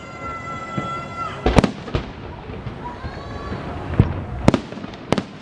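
Festive fireworks salute: aerial shells bursting with sharp bangs, about six, in clusters, over a steady crowd-and-street background.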